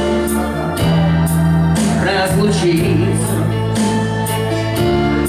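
Slow rock song: a male voice sings a drawn-out line over held organ-like keyboard chords, bass and a steady light cymbal beat.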